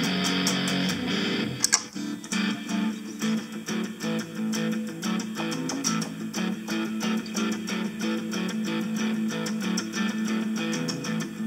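Electric guitar played through a Harley Benton DNAfx GiT multi-effects preset. Sustained notes give way, after a brief sharp transient just under two seconds in, to quick, evenly picked rhythmic notes.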